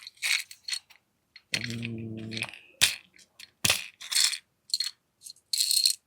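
Small metal airsoft parts and their packaging clinking and rattling in a series of short, irregular clicks as they are handled and sorted, with a brief low hum about a second and a half in.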